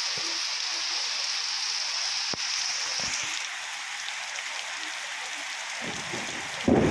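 Heavy rain falling steadily, a constant hiss. Near the end a loud, low rumble of thunder sets in suddenly.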